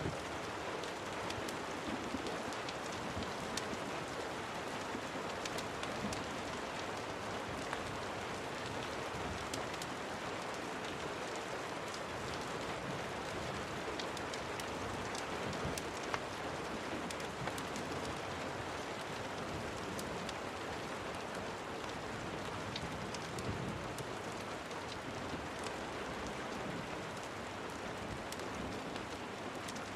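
Steady rain falling on a surface, an even hiss scattered with many small sharp ticks of individual drops.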